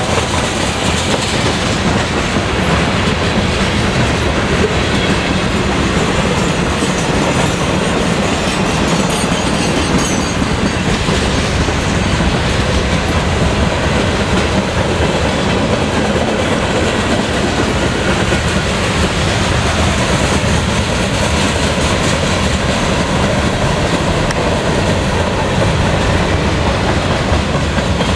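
Freight train cars rolling past, steel wheels clicking over rail joints in a steady, continuous run.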